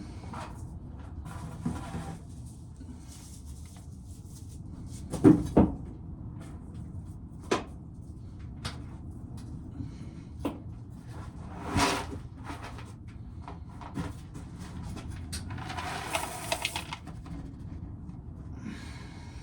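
Scattered knocks and clatter of dried corn cobs and kernels being handled during hand shelling, with a short rustling rattle about sixteen seconds in.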